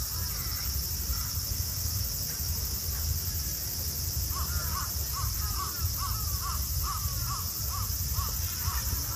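A bird calling in a quick run of short, arched notes, about three a second, from about four seconds in. Behind it are a steady high insect chorus and a low outdoor rumble.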